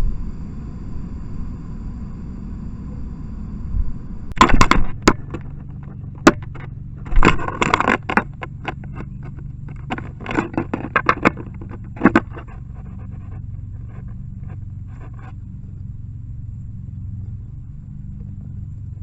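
Red-bellied woodpecker pecking at the trail camera's plastic motion-sensor cover, heard right at the camera's microphone: sharp knocks in quick irregular runs, starting about four seconds in and fading out a few seconds before the end. A low steady rumble runs underneath.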